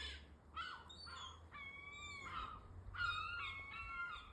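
Birds calling: a series of drawn-out, squawking calls, several in a row with short gaps between them.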